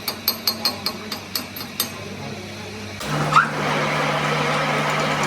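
Quick metal-on-metal hammer taps, about three a second, that stop about 2 s in. About 3 s in, a workshop machine starts up abruptly and runs with a steady hum, with a short squeal just after it starts.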